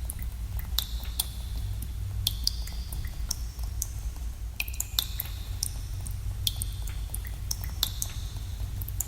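Water drops falling into a pool in a cave, plinking irregularly about once or twice a second. Each drop is a sharp click with a brief high ringing note that echoes in the cave, over a steady low rumble.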